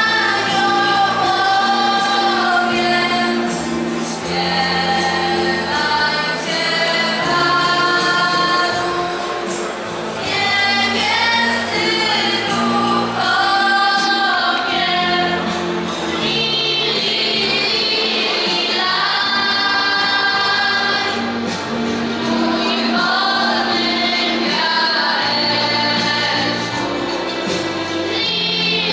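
Choir singing a Polish Christmas carol (kolęda).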